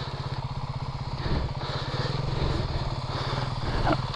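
Dirt bike's single-cylinder four-stroke engine idling steadily, with a fast, even low pulse.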